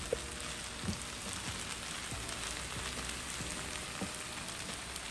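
Shrimp and pineapple fried rice sizzling steadily in a hot skillet, with a few light scrapes and taps of a wooden spatula stirring through it.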